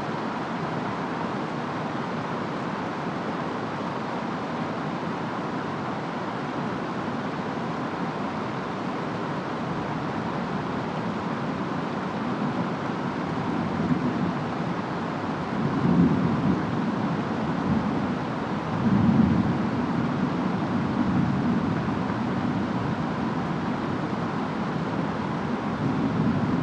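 Steady rain with distant thunder rumbling low several times in the second half.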